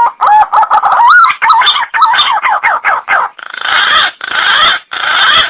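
Green pigeon (punai) calling: a whistled note runs into a quick series of short warbling, gliding whistles, followed near the end by three harsh, rasping phrases.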